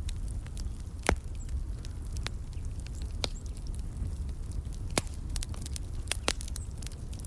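Wood fire crackling: irregular sharp pops and snaps over a low steady rumble, with the loudest pop about a second in.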